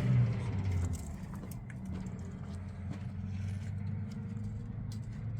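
An engine running steadily at low revs, with scattered light clicks and knocks over it.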